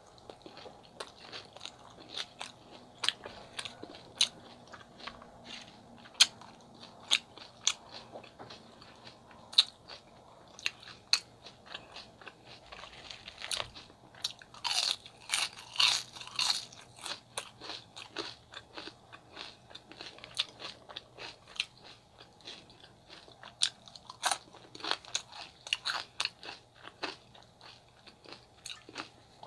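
Close-miked chewing and biting of a chicken gyro wrap and fries, full of sharp wet mouth clicks and smacks. A louder, denser run of chewing comes about halfway through.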